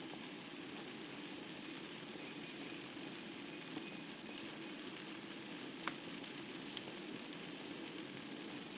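Wood fire burning in a fireplace: a steady soft hiss with a few sharp crackles and pops of the burning logs, four of them from about four seconds in.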